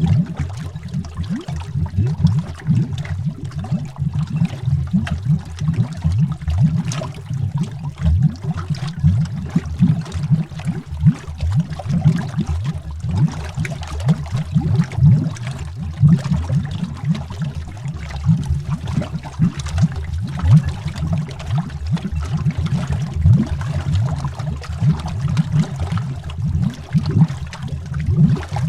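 Continuous underwater bubbling, heard from beneath the water: a dense, irregular stream of low bubble pops with fainter higher ticks.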